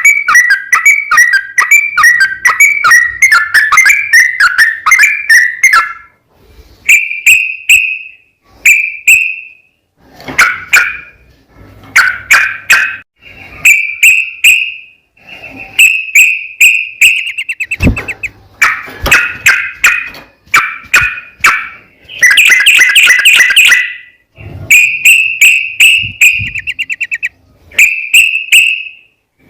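Yellow-vented bulbul (trucukan) singing a loud, fast, bubbling song: an unbroken rapid run of notes for the first several seconds, then short chattering phrases separated by brief pauses.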